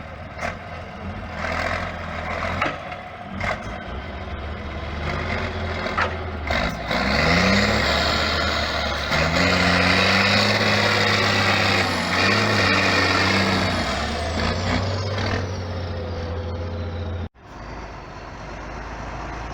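Trial truck's diesel engine revving and working hard under load, with a loud hiss over it. The pitch rises about a third of the way in and stays high for several seconds before easing off. The sound breaks off suddenly near the end.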